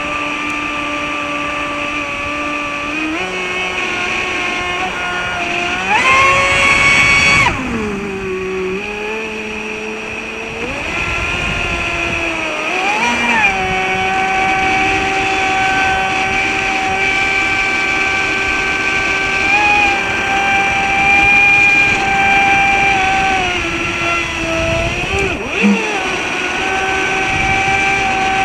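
Traxxas Spartan RC boat's electric motor whining as it runs, its pitch rising with throttle: a short loud high-pitched burst about six seconds in, then a climb around thirteen seconds to a steady higher whine, with a brief dip near the end.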